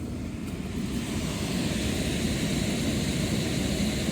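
Blower motor and squirrel-cage wheel of a Trane packaged heat pump starting up and running, a steady rush of moving air that builds over about the first second and a half, then holds.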